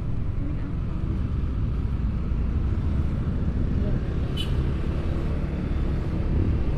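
Steady low rumble of road vehicles running, with a brief high chirp about four and a half seconds in.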